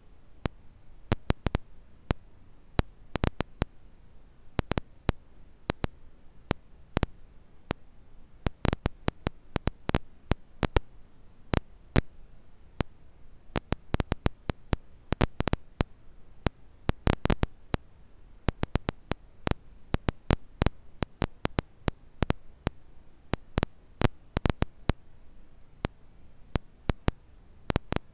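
Campfire crackling: irregular sharp snaps and pops, sometimes in quick clusters, over a faint low hiss of burning.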